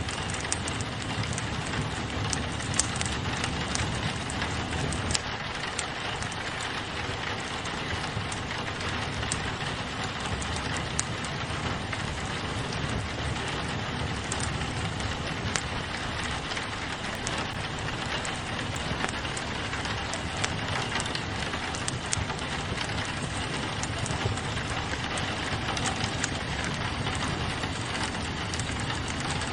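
Steady rain pattering on a window glass, mixed with a fireplace's wood fire crackling in scattered sharp pops.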